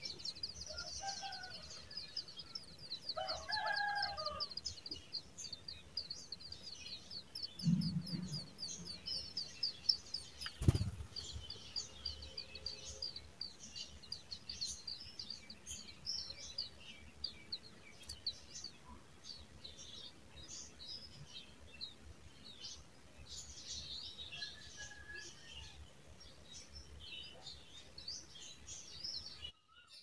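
High, thin chirping of brown rock chats at the nest. A fast, even ticking trill runs for about the first dozen seconds, then gives way to scattered short chirps, with a few lower calls in the first few seconds. There is a low thump and then a sharp tap near the middle.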